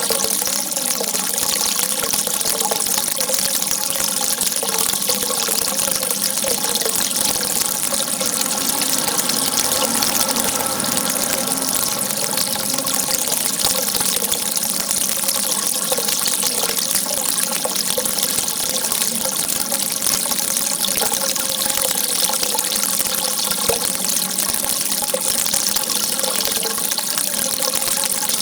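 Water rushing steadily and unbroken, a continuous hiss strongest in the high range.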